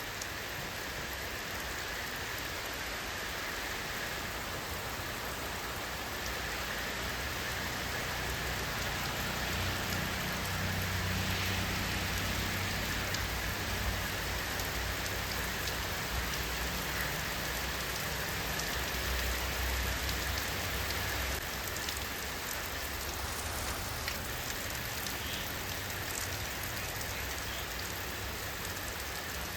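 Steady rain falling, an even hiss of drops. A low rumble swells beneath it through the middle and eases off about two-thirds of the way through.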